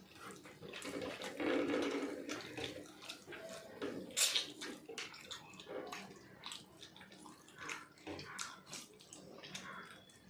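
Wet eating sounds of people eating biryani by hand: irregular chewing, lip smacks and small mouth clicks, busiest about one and a half to two seconds in.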